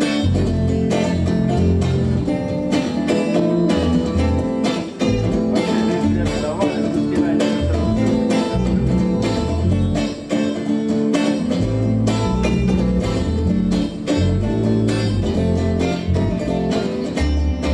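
Acoustic guitar strummed in a steady rhythm: the instrumental introduction of a song, before the vocals come in.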